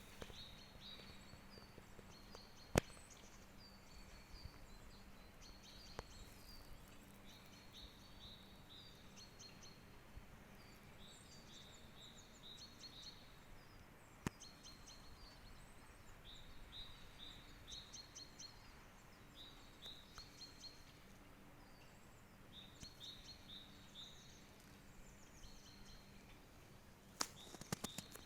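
Faint chorus of small birds chirping, with many short high notes repeating throughout. There is a single sharp click about three seconds in and another about fourteen seconds in.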